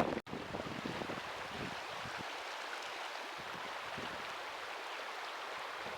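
Mountain stream flowing, a steady even rush of water, with a momentary dropout just after the start.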